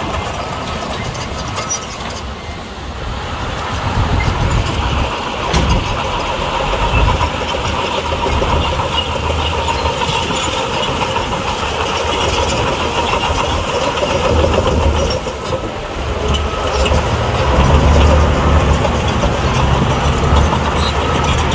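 Heavy diesel earthmoving machinery running under load, a steady engine sound with a deep rumble that grows louder about three-quarters of the way through. A few short knocks sound over it.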